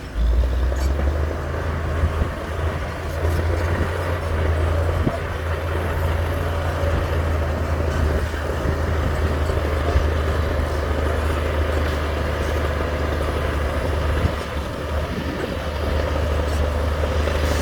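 Heavy diesel engine of earthmoving machinery running steadily with a deep low drone.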